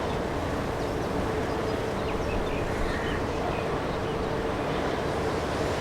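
Steady rumbling roar of a large engine, with a constant hum under it and no change in level.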